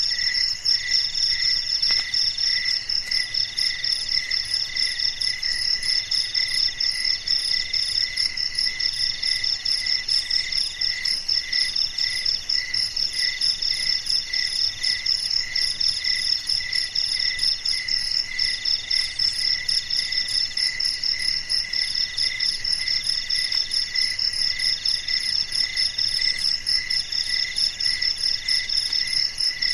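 A steady chorus of insect-like trilling, several high calls layered at different pitches. Each call pulses rapidly and without a break, and one middle-pitched layer repeats in phrases of just over a second.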